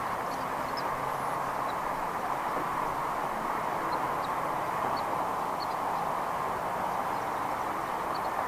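Steady outdoor rushing noise with a few faint, short, high chirps of small birds scattered through it.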